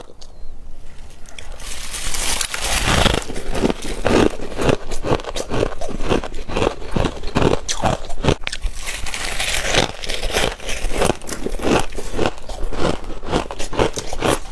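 Freezer frost being chewed close to the microphone: rapid, crisp crunching that starts about a second and a half in and keeps going densely.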